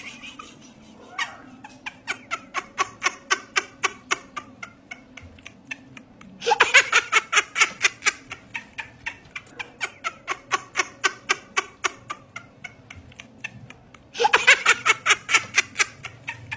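A person laughing in quick, even bursts of about four a second, breaking into louder laughter twice.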